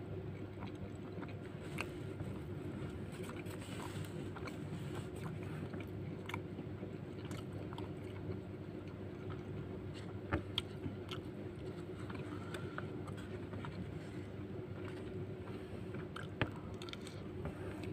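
Close-up eating sounds: a person chewing and biting mouthfuls of nasi lemak, with the plastic spoon scraping and scooping rice off the banana leaf, and scattered small clicks over a steady low hum. A few sharper clicks come about ten seconds in and again near the end.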